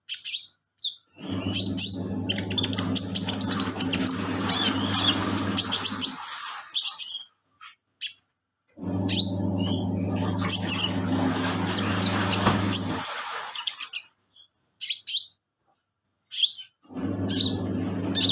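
A washing machine's motor runs in stretches of several seconds with pauses between them, like an agitation cycle: a steady low hum starts about a second in, stops near 6 s, comes back near 9 s, stops near 13 s and starts again near the end. Throughout, a caged songbird gives sharp, high chirps, loudest in the pauses.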